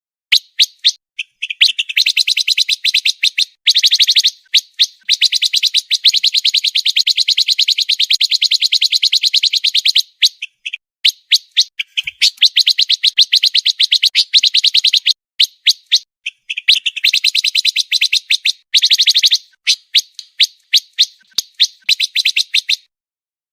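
Pancawarna bird singing a fast, dense song: rapid trills of sharp high notes, roughly ten a second, in runs lasting several seconds. The runs are broken by short pauses and a few spaced single chirps.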